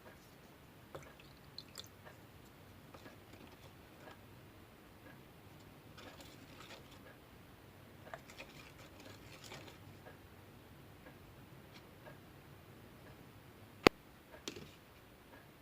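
Slime being handled and squeezed: faint squishing with scattered small clicks, and one sharp click near the end.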